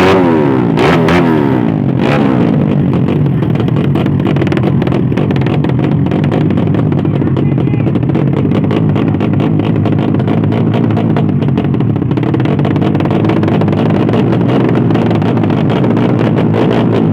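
Drag-racing Yamaha underbone motorcycle engines revving up and down quickly in the first two seconds, then running loud and steady at high revs.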